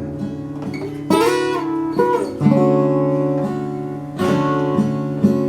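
Acoustic guitar playing an instrumental passage. Chords are struck about three times, roughly a second or two apart, and each is left to ring.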